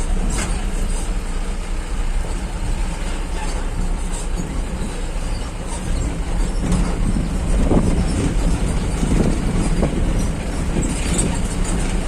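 Vehicle driving over a bumpy, rough dirt road: a steady low rumble of engine and road noise, with jolts and knocks from about six to ten seconds in.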